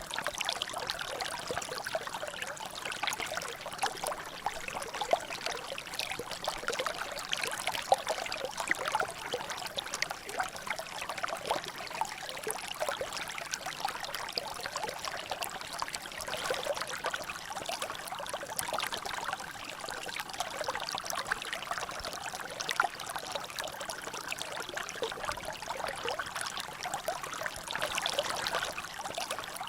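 Water dripping and trickling steadily in a small drainage channel, a dense, irregular patter of many small drops with no pause.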